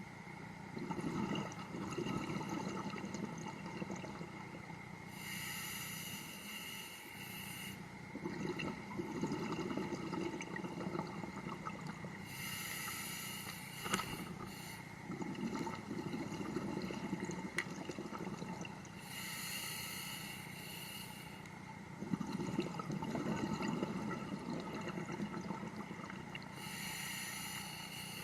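A scuba diver breathing underwater through a regulator, about one breath every seven seconds. Each cycle has a high hiss from the demand valve on the inhale, then a low rumble of exhaled bubbles, four breaths in all.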